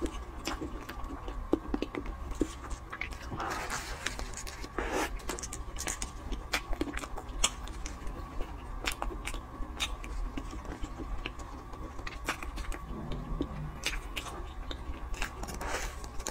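Close-miked chewing and wet mouth clicks of someone eating a soft sponge cake filled with whipped cream, with small crinkles and clicks scattered throughout, over a faint steady hum.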